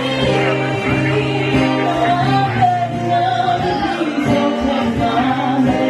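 Music: a singer performing over instrumental backing, holding one long note about two and a half seconds in.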